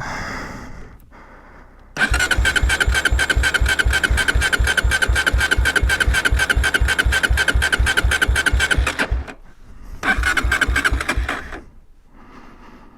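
Dirt bike's electric starter cranking the engine: a long crank of about seven seconds starting two seconds in, then a shorter one about ten seconds in, with even chugging about five times a second under the starter's whine. The engine does not catch; the bike had been laid on its side and is thought to have plenty of fuel in it already.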